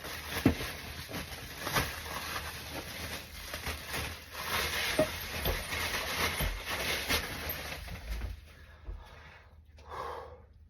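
Packing material being pulled from a box and crinkled by hand: continuous rustling and crackling with sharp crinkles, easing off about eight seconds in.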